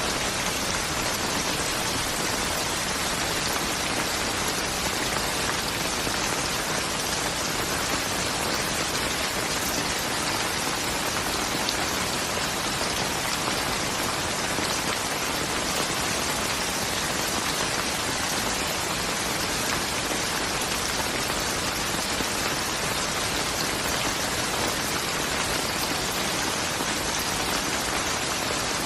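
Steady rain falling, an even dense hiss of drops with no change in level.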